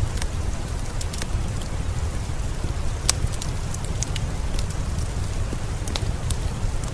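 Steady rain with a deep low rumble, mixed with a wood fire crackling in scattered sharp pops.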